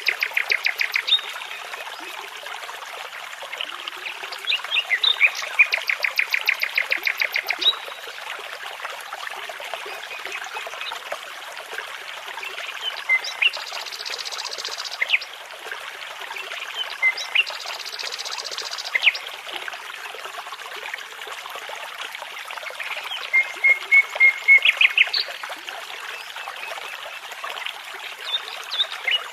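A nightingale singing over a babbling brook. It sings phrases of fast repeated notes, once at the start, again about five seconds in and near the end, with scattered single notes between. The water runs steadily throughout.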